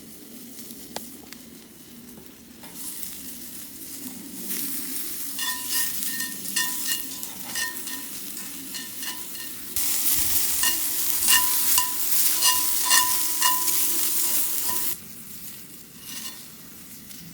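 Food sizzling and frying in a metal pan while being stirred, a metal utensil repeatedly clinking and ringing against the pan. The sizzle swells about three seconds in, is loudest with frequent clinks from about ten to fifteen seconds, then falls back to a faint hiss.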